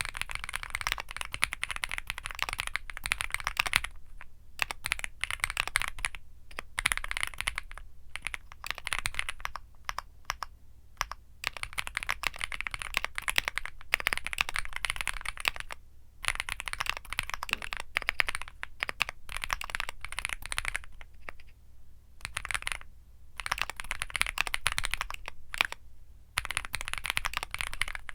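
Womier SK75 mechanical keyboard with Womier Mint Blizzard switches, typed on continuously in fast runs of keystrokes. A few brief pauses between bursts, the longest near the end.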